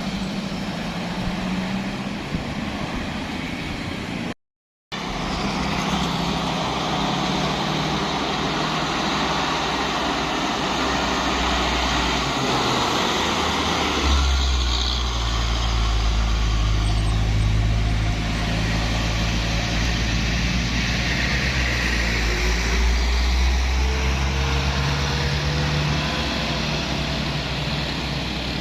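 Heavy truck engine running under load on an uphill climb. The engine drone grows much deeper and louder about halfway through and stays that way, and the sound cuts out completely for about half a second near the start.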